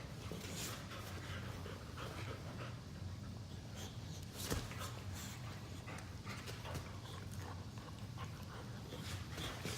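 Two boxer dogs play-wrestling, with scattered rustles and dog noises. There is a sharp knock about halfway through, over a steady low hum.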